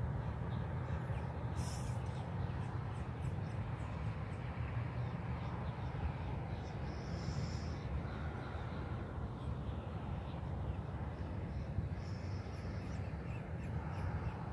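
Outdoor ambience: a steady low rumble with a few faint, brief high bird calls now and then.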